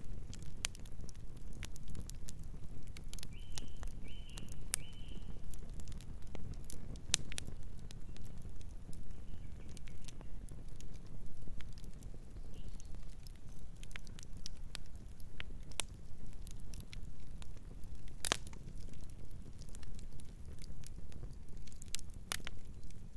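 Wood fire burning, with a steady low rumble of flames and irregular crackles and pops, one louder pop about eighteen seconds in. A bird gives three short chirps a few seconds in.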